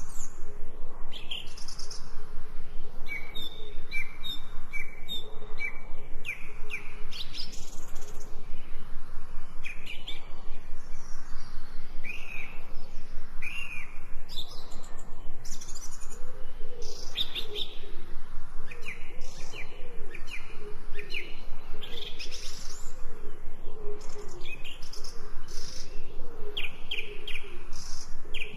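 Songbirds chirping and singing, many short overlapping chirps and quick rising and falling notes, with a lower warbling call joining in about halfway through. A fast, regular pulsing runs underneath.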